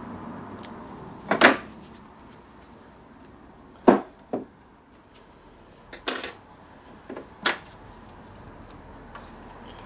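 A series of separate knocks and clunks, about six in all, of metal parts and tools being handled and set down during work on an old benchtop mini lathe.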